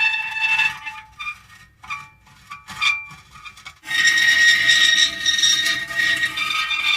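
Metal creaking: drawn-out high-pitched squealing creaks with a steady ringing pitch. A quieter stretch of short broken squeaks comes in the middle, then a long loud squeal starts about four seconds in.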